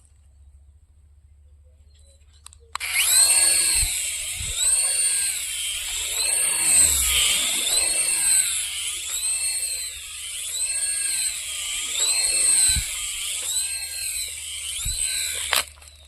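Toy RC helicopter giving off a high-pitched whirring that rises and falls in pitch about every second and a quarter, over and over. It starts abruptly a few seconds in and cuts off just before the end.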